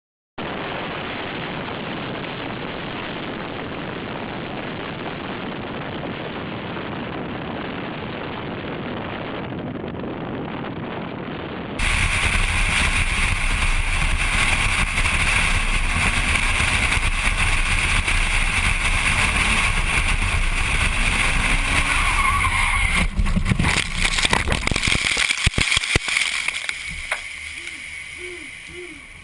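Car driving noise from two clips. The first is a steady road rumble; a sudden cut about twelve seconds in brings a louder one with a steady high whine. A few seconds before the end come several sharp knocks and bangs, then the noise fades.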